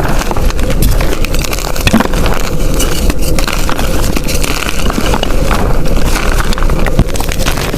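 Blocks of gym chalk crushed and crumbled by hand: a dense, continuous crunching and crackling with many sharp little cracks throughout.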